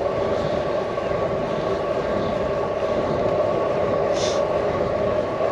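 Steady rolling noise of a bicycle riding along a trail, heard through a handlebar-mounted GoPro microphone: tyre hum and wind rumble, with a brief hiss about four seconds in.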